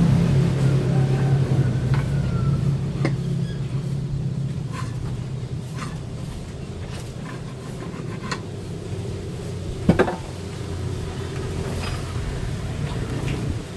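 A low, steady motor hum that fades over the first several seconds, with scattered light knocks and clicks and one sharper knock about ten seconds in.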